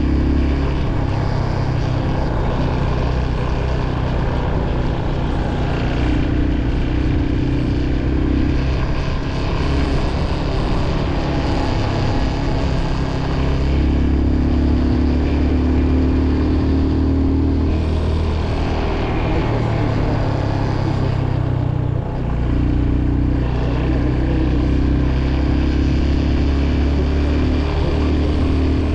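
Motorcycle engine running under way while riding, its note stepping up and down several times as the throttle and gears change.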